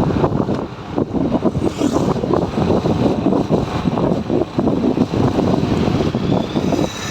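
Wind buffeting a helmet-mounted camera's microphone while riding a motorcycle on a highway, loud and gusty, with the motorcycle running underneath.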